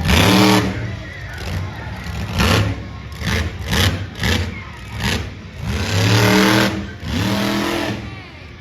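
Monster truck engine revved hard in a string of short blips, its pitch sweeping up with each one, and a longer rev about six seconds in.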